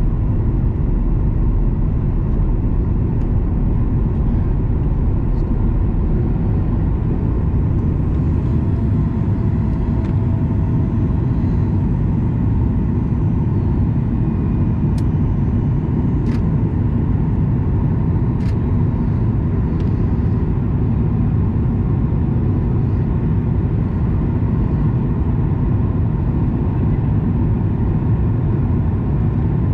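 Steady rumble of cabin noise inside a Boeing 737 MAX 9 airliner: airflow and its CFM LEAP-1B engines running, with a few faint clicks midway.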